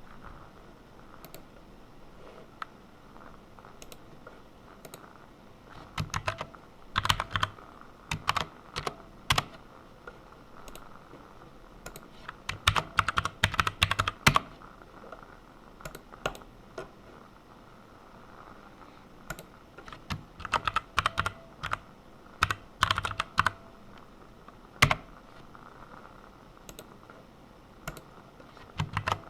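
Computer keyboard typing in short bursts of rapid keystrokes, with pauses between bursts and a few single, louder key strikes.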